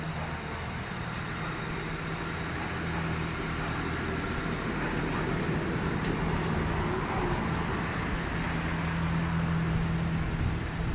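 Steady low hum of an idling vehicle engine, with no siren sounding.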